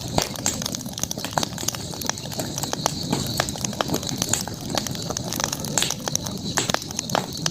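Wood campfire crackling, with many irregular sharp pops and snaps over a steady low noise. A thin steady high tone runs underneath.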